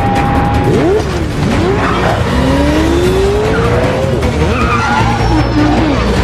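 Film car-chase mix: engines revving with several rising and falling squeals of skidding tyres, over a low rumble and a film score.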